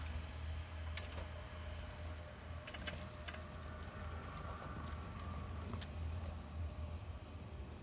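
Steady low rumble of a Yodo Line diesel railcar running on past the level crossing, with a few faint clicks and knocks.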